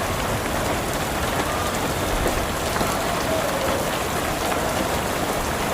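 Rain and hailstones falling on a rooftop: a steady hiss dotted with many small, sharp ticks.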